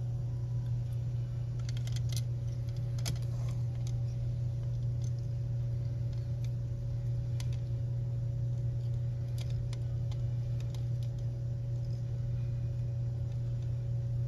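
Light clicks and small rattles of wiring connectors and plastic parts being handled and plugged in, most of them in the first few seconds, over a steady low hum.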